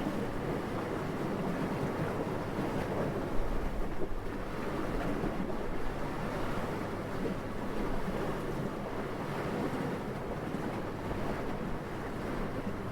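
Steady wind blowing as an even rushing noise, with a brief stronger low gust about three and a half seconds in and another about four seconds in.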